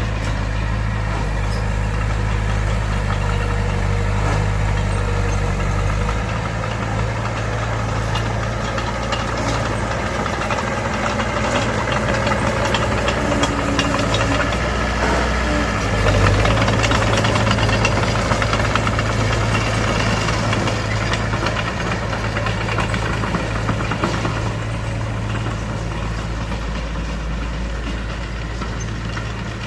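Mitsubishi BD2F bulldozer's diesel engine running under work, its note shifting a few times and loudest about halfway through, with clatter in the middle stretch.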